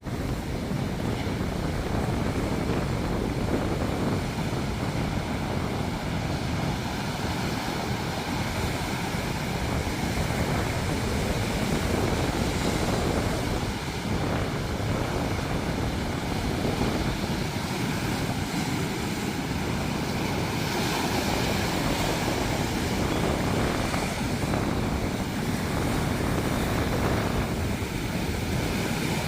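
Ocean surf: a continuous wash of breaking waves with a deep rumble underneath.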